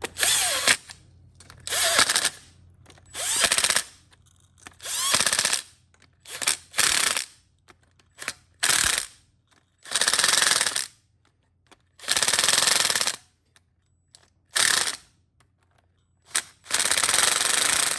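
Power driver run in about eleven short bursts, a second or less each, with a rapid hammering, as when bolts are driven into the engine.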